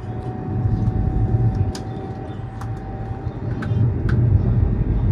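Inside a high-speed train's passenger car: the steady low rumble of the train running at speed, swelling and easing slightly, with a faint steady tone over it and a few light scattered clicks.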